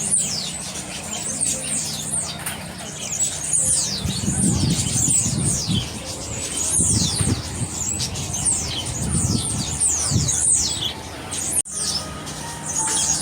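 Many small birds in an aviary chirping, a chatter of quick high notes that each slide downward, repeating without a break. Low muffled rumbles come and go in the middle, and the sound drops out for an instant near the end.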